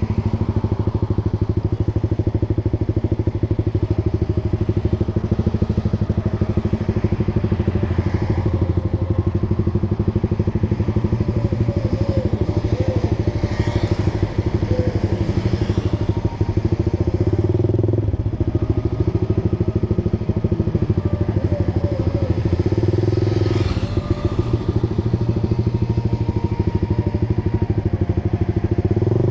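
Honda Sonic 150R's single-cylinder four-stroke engine running through an aftermarket Proliner TR1 short exhaust while the bike is ridden. The engine note holds fairly steady, with brief shifts in pitch a few times.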